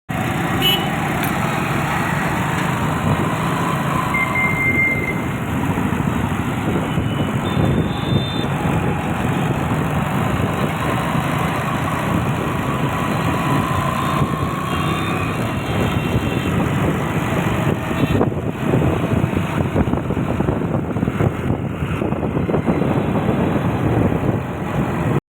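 Steady road and traffic noise of a ride on a scooter, with a brief high tone about four seconds in.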